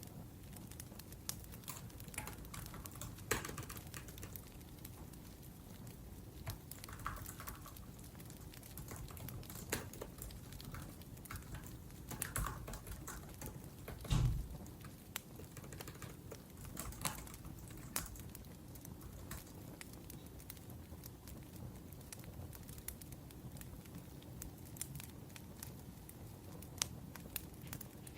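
Typing on a laptop keyboard: irregular runs of soft key clicks, over the steady low sound of a burning wood fire, with one heavier low knock about halfway through.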